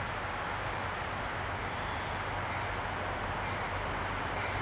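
Distant diesel commuter train approaching: a steady low engine hum under an even hiss, growing slightly louder near the end.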